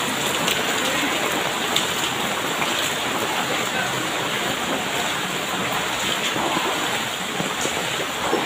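Heavy rain falling steadily, splashing onto floodwater that covers the ground.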